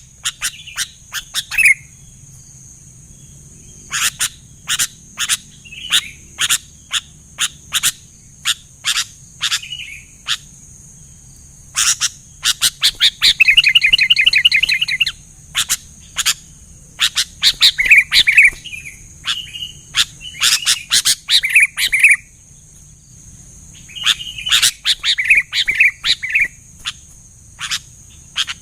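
Sooty-headed bulbuls singing: runs of short, sharp chirps in bursts separated by pauses, with a fast rattling trill about 13 seconds in and bubbling phrases later on.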